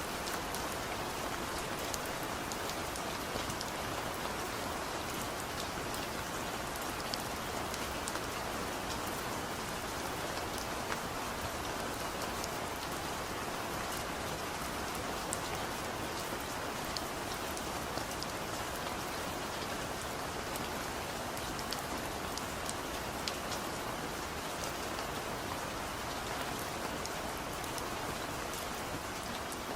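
Heavy rain falling steadily, a dense even hiss with scattered sharper ticks of individual drops striking a surface.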